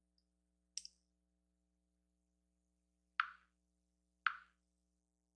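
Three short, sharp clicks: a faint, high one about a second in, then two stronger ones about a second apart near the end.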